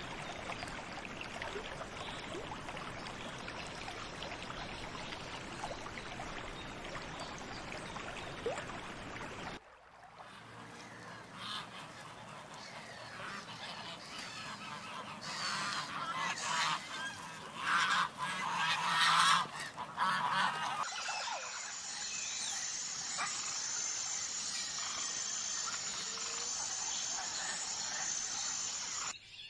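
Natural bird sounds in three cut-together scenes. First a steady rushing noise, then a series of loud, harsh bird calls a little past the middle, then a calmer background with a fast, high, evenly repeating pulse near the end.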